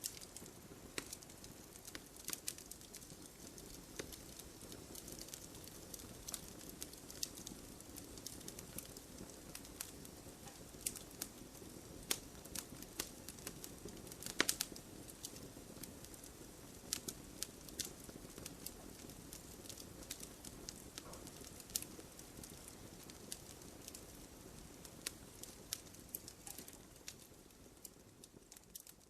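Campfire burning with a steady low hiss and frequent sharp crackles and pops, including a loud burst of pops about halfway through. The fire sound fades out near the end.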